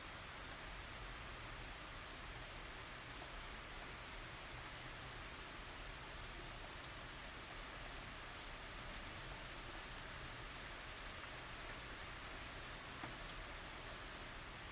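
Gentle tropical rain falling steadily, an even hiss with scattered individual drops ticking through it.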